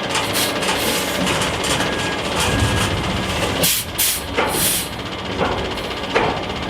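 Heavy truck running, its reversing alarm beeping a couple of times, with several short bursts of air hiss around the middle.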